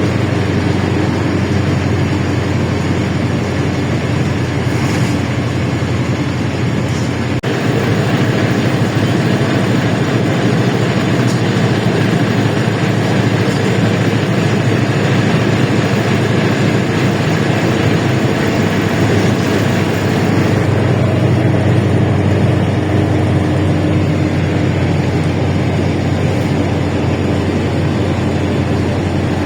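LiAZ-677M bus running on the road, heard from inside the cabin: the steady engine note and road noise carry on throughout, with a brief click and dip in level about seven seconds in.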